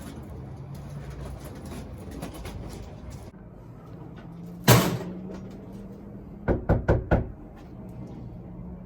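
Knocking on a door: one loud single bang, then about two seconds later four quick knocks in a row, over a steady low hum.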